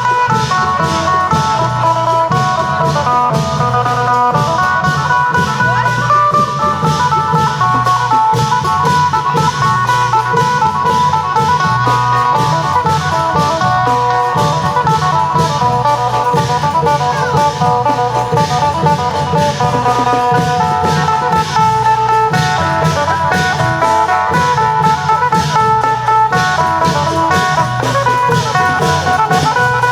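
Isan phin (plucked lute) playing a busy, fast-note melody over a steady beat from klong yao long drums and cymbals, the lively processional music of an Isan long-drum troupe.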